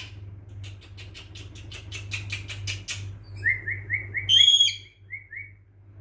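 Pet parrot vocalizing: a rapid series of short clicks at about five a second, then a run of short repeated chirps and a single loud whistle about four seconds in, followed by two more brief chirps.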